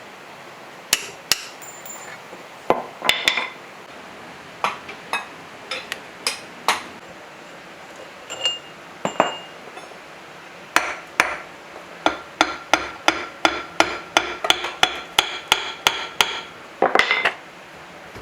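Hammer striking metal on an old diesel engine being dismantled: scattered single blows, then a fast, even run of about four strikes a second from about twelve seconds in, each with a short metallic ring.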